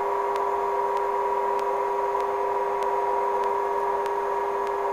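Helicopter running, heard through the crew's radio/intercom audio: a steady hiss with two held hum tones and faint regular ticks.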